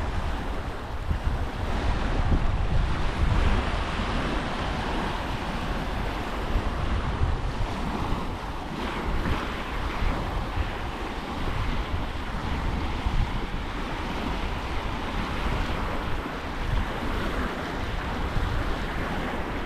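Surf washing onto the beach, with strong wind blowing across the microphone.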